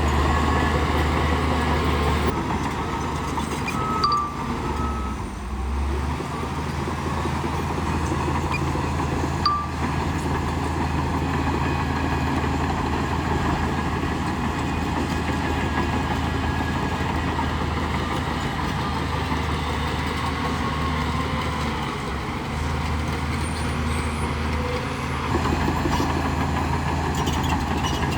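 Heavy diesel engine of a bulldozer running steadily at work, with a low even drone. Short high chirps sound about four seconds in and again near ten seconds.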